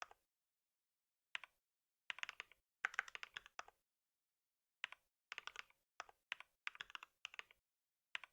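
Typing on a computer keyboard, in short bursts of rapid keystrokes with brief pauses between them.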